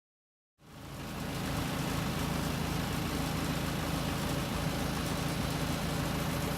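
Backhoe engine idling steadily, fading in from silence about half a second in.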